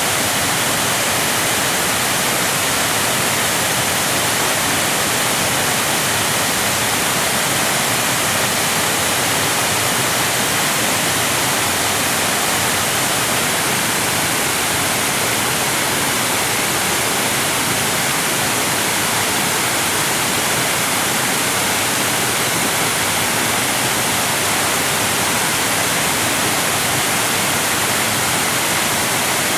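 Rushing water: a loud, steady hiss, brightest in the high range, with no change in level.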